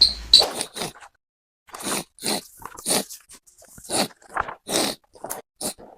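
A person making exaggerated wet snorting and sniffling noises through a snotty nose, in irregular short bursts, with crunching mouth noises mixed in.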